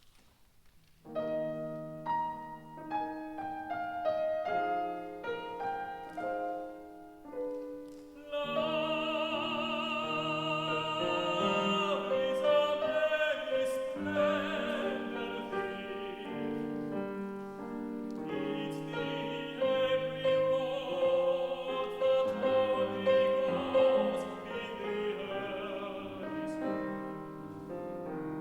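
Piano introduction, then a classical tenor enters singing with wide vibrato over the piano accompaniment about eight seconds in.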